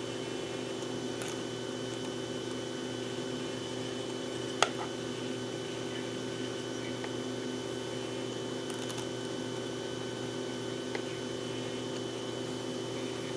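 A steady machine hum made of several fixed tones, with one sharp click about four and a half seconds in and a fainter click later.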